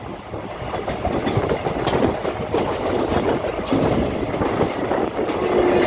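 Train running along the rails, a steady rumble with the uneven clatter of wheels over rail joints; the train's horn begins to sound just before the end.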